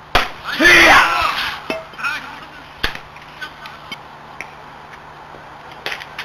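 A person's loud shout at the start, a call like the one just before it, followed by a few scattered sharp knocks.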